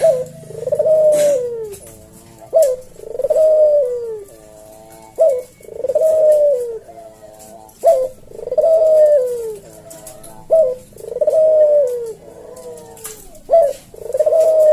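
Puter dove cooing its 'kuk deruk' call over and over at a slow, spaced pace, about one call every two and a half seconds. Each call is a falling coo followed by a short, sharper note.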